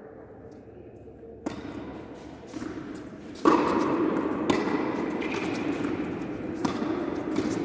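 Tennis ball struck by rackets during a rally: a few sharp hits one to two seconds apart over steady background noise.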